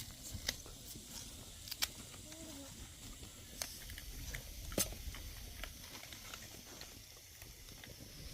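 A few scattered sharp clicks and knocks over a faint low rumble, with a brief faint wavering call about two and a half seconds in.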